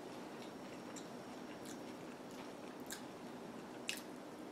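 Quiet close-up chewing of a soft bean-and-cheese taco, with a few small wet mouth clicks, then a bite into the taco near the end.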